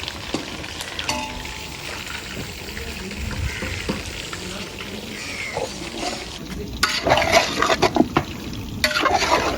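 Chicken pakoras deep-frying in hot oil, with a utensil stirring and scraping in the pan. Louder, denser knocks and scrapes come in the last few seconds.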